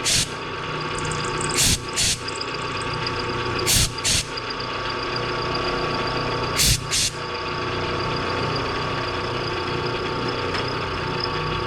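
Machine tool running steadily with a constant hum and whine while cutting a slot in a T-nut blank. Short hissing bursts come in pairs, four pairs a couple of seconds apart, stopping about seven seconds in.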